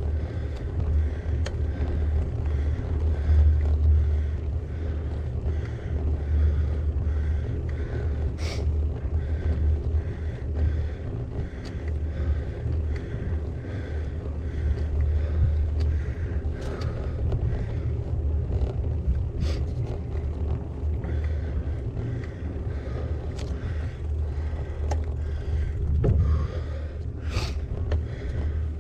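Wind buffeting the microphone of a bike-mounted action camera while riding, a steady low rumble, with a few sharp clicks from the bike.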